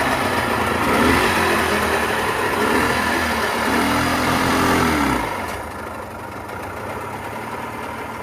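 Freshly repaired two-stroke outboard boat motor running, revving up and then easing back to a quieter idle a little over five seconds in.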